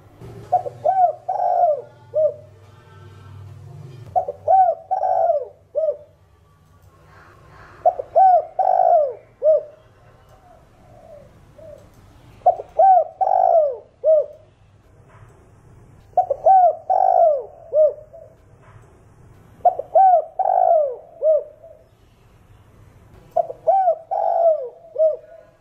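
Spotted dove cooing its multi-note song phrase over and over, a short run of coos repeated seven times, about every four seconds.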